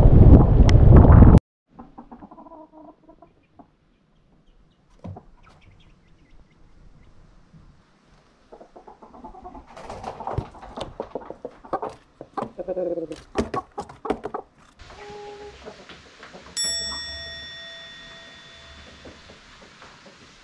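Chickens clucking and calling, with scattered knocks. This follows a loud rushing noise of wind on the microphone that cuts off abruptly about a second in. Near the end a single ringing tone starts suddenly and fades away over a few seconds.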